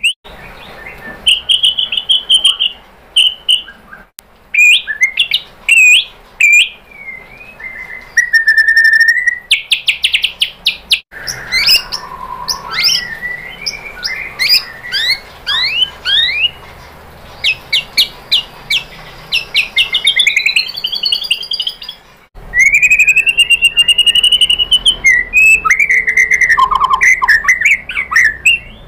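White-rumped shama singing a fast, varied song of clear whistles, rapid trills and quick rising sweeps, delivered in short phrases separated by brief pauses.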